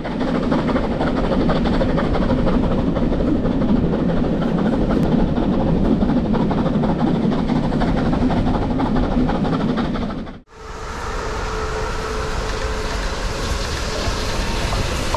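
A train running on the rails, a dense steady rumble with clickety-clack. About ten seconds in it cuts off sharply and gives way to a hissier sound as Merchant Navy class steam locomotive 35028 Clan Line approaches, with a faint steady tone.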